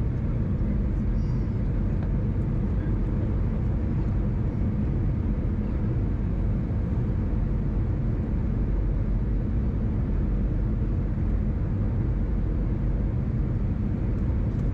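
Steady cabin noise inside an Airbus A319 airliner: an even rumble of the engines and airflow, with faint steady tones.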